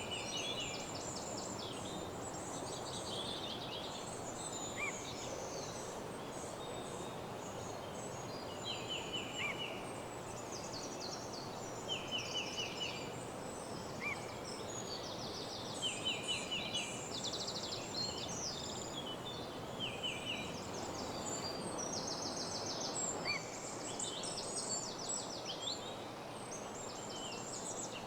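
Woodland dawn chorus: several songbirds singing over one another, mostly short, fast trills repeated every second or two, over a steady low rushing background.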